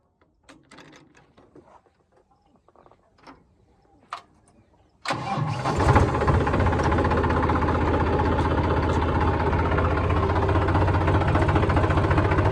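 Tractor diesel engine starting about five seconds in, catching within a second and then running steadily. A few faint clicks and knocks come before it.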